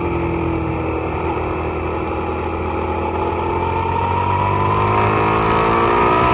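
Suzuki SV650's V-twin engine running hard on track, its pitch dipping slightly and then rising steadily over the last few seconds as it accelerates and grows louder.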